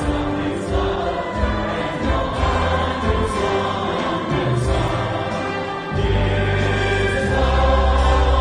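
A large group of voices singing a Christmas carol with instrumental accompaniment; about six seconds in, the music grows louder, with a strong bass.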